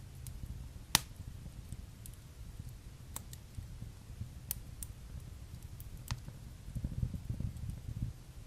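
Wood fire burning in a fireplace, crackling with scattered sharp pops, the loudest about a second in, over a low flutter of flames that swells near the end.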